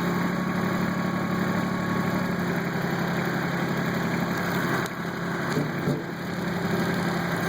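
Kubota tractor's diesel engine running steadily at low speed while the tractor crawls along with a heavy concrete footing in its front loader bucket. Between about five and six seconds in, the engine level dips briefly and there are a couple of faint knocks.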